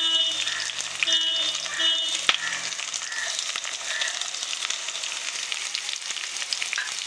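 Chopped onion dropping into hot oil in a frying pan and sizzling, with garlic, green chillies and cumin already frying in it: a steady crackling sizzle. One sharp knock about two seconds in.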